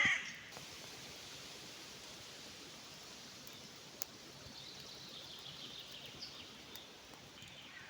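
Forest ambience: a steady rustling background with faint, short bird chirps about halfway through, and the end of a crow's caw right at the start.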